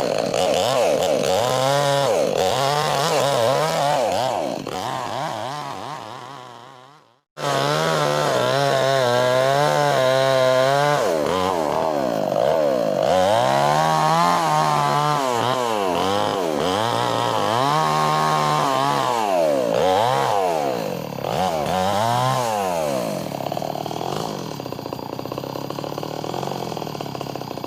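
Chainsaw ripping a log lengthwise, the engine's pitch rising and falling repeatedly as it works through the cut. It cuts off abruptly about seven seconds in and is running again a moment later.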